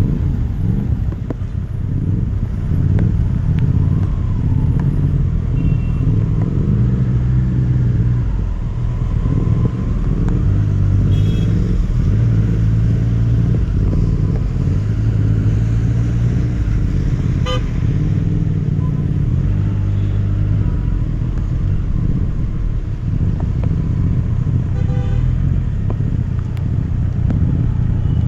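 Triumph Street Triple RS three-cylinder engine running under way, its note rising and dropping with throttle and gear changes, over steady wind and road noise.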